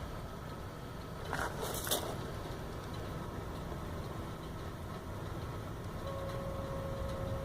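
A steady hum at one pitch starts about six seconds in and lasts about two seconds over a low background rumble; the owner thinks it sounds like the fuel pump, or perhaps the oil pump, running. A brief hiss about a second and a half in.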